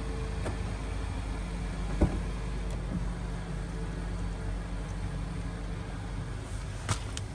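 Mercedes-Benz B-Class (W246) engine idling steadily, with a sharp click about two seconds in and a few faint clicks near the end.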